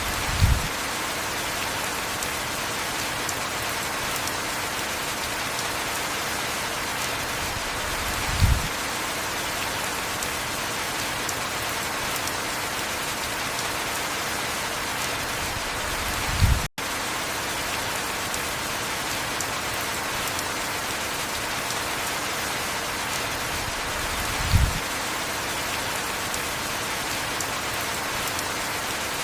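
Heavy rain falling steadily, an even hiss, with a short low thud about every eight seconds and a split-second dropout about halfway through.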